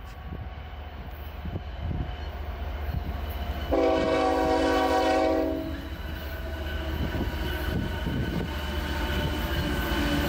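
Union Pacific diesel freight locomotive approaching, its engine and wheel rumble growing steadily louder. About four seconds in it sounds its air horn in one chord-like blast lasting about two seconds.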